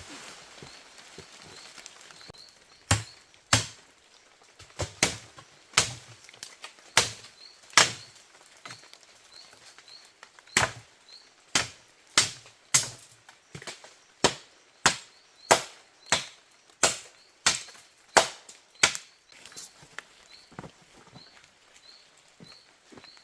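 A blade chopping into wood: a run of about twenty sharp, separate strikes, roughly one to two a second with short pauses, beginning a few seconds in and stopping a few seconds before the end.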